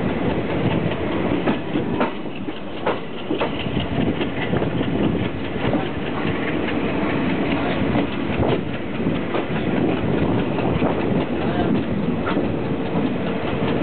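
Passenger train running along the line: a steady rumble of wheels on rail, with irregular clattering knocks as the wheels pass over rail joints, heard from on board.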